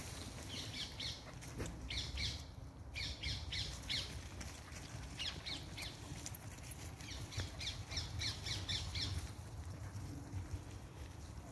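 A wild bird calling in several runs of quick, harsh, high notes, about five or six a second, over a low rumble of walking and phone handling.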